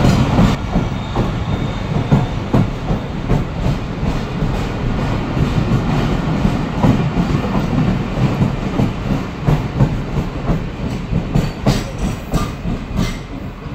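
Business Express passenger coaches rolling past on the track, their wheels clattering over the rail joints in a steady rumble. The sound thins out near the end as the last coach goes by.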